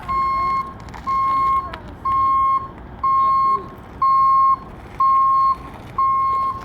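Vehicle backup alarm beeping: a steady single-pitched beep repeated about once a second, seven times.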